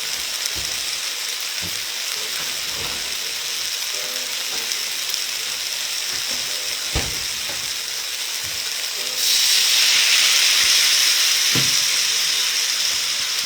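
Chicken and mushrooms sizzling in a hot wok, a steady frying hiss with a few light knocks. About nine seconds in the sizzle suddenly gets louder and stays up.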